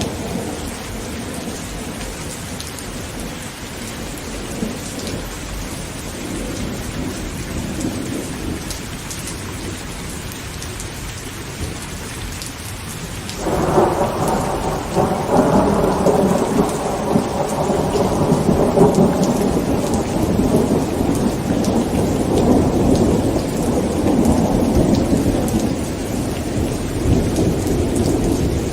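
Heavy rain falling on a tent, with a faint low rumble of distant thunder at first. About halfway through, a thunderclap breaks in suddenly and rumbles on loudly for more than ten seconds before easing off near the end.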